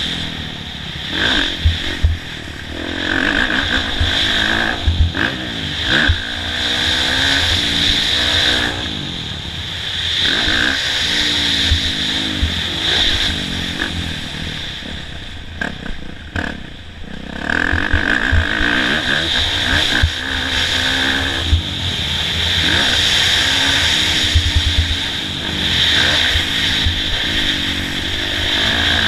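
Kawasaki KX450F four-stroke single-cylinder dirt bike engine ridden hard on a motocross track. It revs up and drops off again and again through the gears and over the jumps, with clattering knocks from the bike. It eases off briefly a little past halfway, then picks up again.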